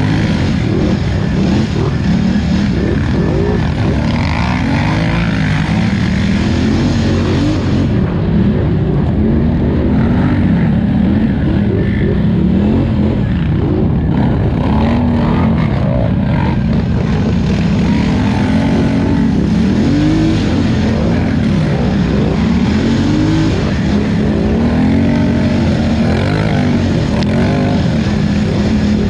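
Polaris Scrambler 1000 XP ATV engine under race throttle, its pitch rising and falling continually as the throttle is opened and closed.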